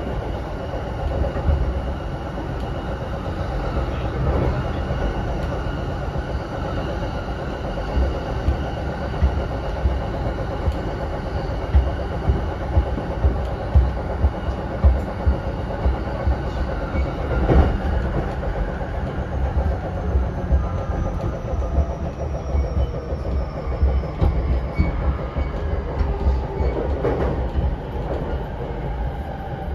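Running noise inside a JR E233-7000 series electric commuter train car: a steady rumble, with irregular knocks of the wheels over rail joints through the middle. Near the end the train's motor whine falls in pitch as it brakes into the station.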